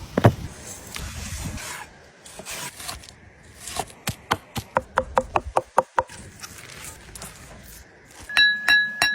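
A quick run of about a dozen sharp wooden knocks, about four a second, after a single knock at the start. Near the end come a few short, high ringing notes.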